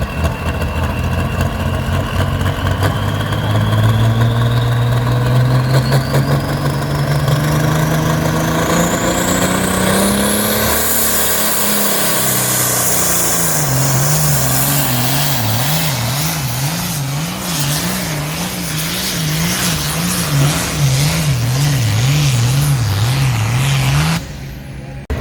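A pulling vehicle's engine under load, its revs climbing for about ten seconds with a rising whine. The revs then bounce up and down a little over once a second until the sound cuts off near the end.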